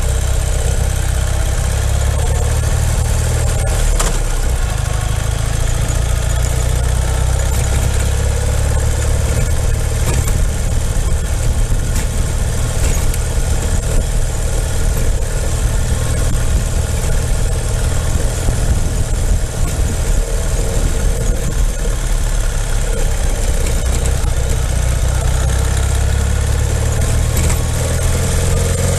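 Ural motorcycle's air-cooled flat-twin engine running steadily, with a constant noisy haze over it.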